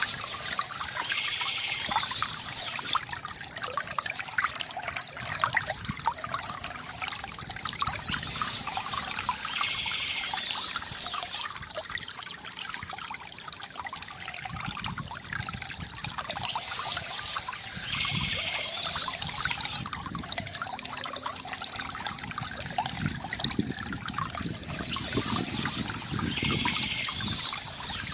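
Small stream trickling and splashing steadily, with birdsong recurring about every eight seconds.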